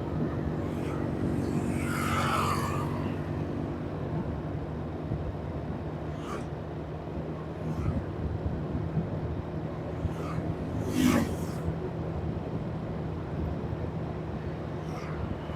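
Vehicle engine running steadily while driving through traffic, with other vehicles passing by about two seconds in and again around eleven seconds in.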